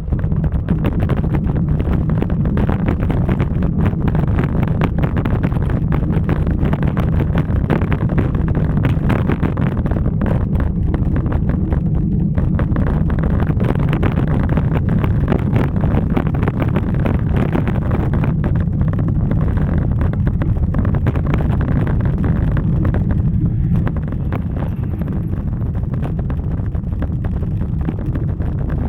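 Wind buffeting the microphone of a camera carried on a moving bicycle: a steady, heavy rumble with a constant flutter. It eases slightly near the end.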